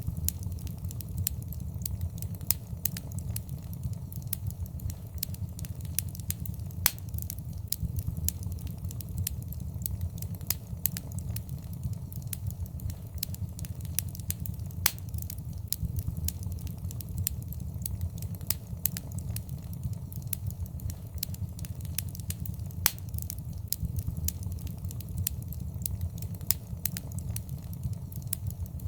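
Wood fire crackling, with frequent sharp pops over a steady low rumble of the flames; a few pops stand out louder than the rest.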